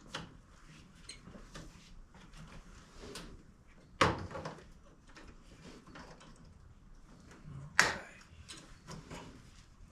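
Small parts and hand tools being handled at the workbench: scattered light clicks and rattles, with two sharp knocks about four and eight seconds in.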